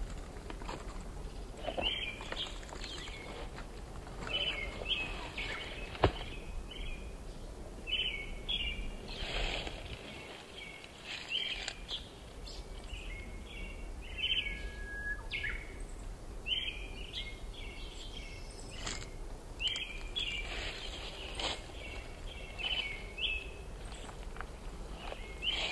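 Small birds chirping, short calls repeating every second or two, over a steady low rumble. A single sharp click about six seconds in.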